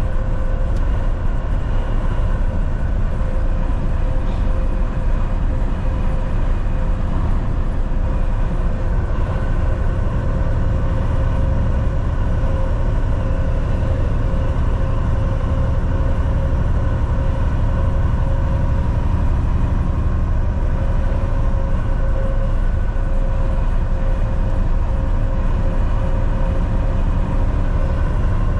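Volvo VNL 760 semi-truck cruising on the highway: a steady engine drone with tyre and road noise and a constant high hum over it, unchanging throughout.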